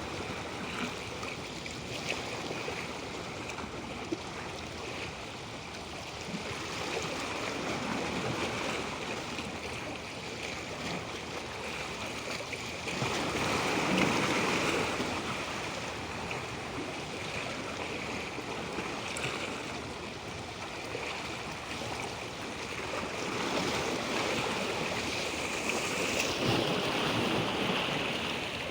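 Natural moving water, a steady wash of water noise that swells into louder surges, the strongest about halfway through and another near the end.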